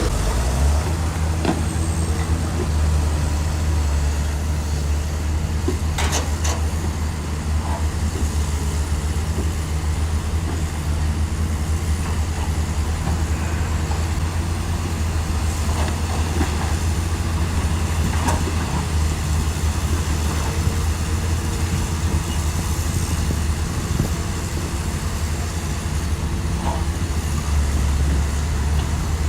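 A bulldozer's heavy diesel engine running steadily under load, with a few sharp metallic clanks, one clear pair about six seconds in.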